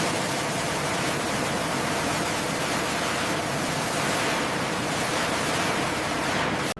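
A steady, even rushing hiss with no tones or rhythm in it. It cuts off abruptly near the end.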